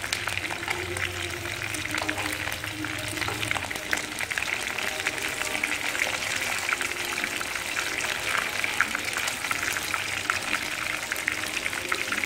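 Chicken pieces sizzling and crackling in hot oil in a frying pan as they are turned with tongs, with a dense, steady spatter of small pops.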